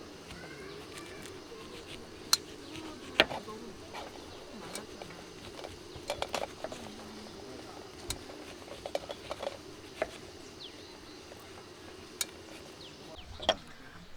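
Scattered sharp clicks and light knocks, as of tableware and camp gear being handled, about a dozen spread irregularly. Under them runs faint outdoor background with distant voices.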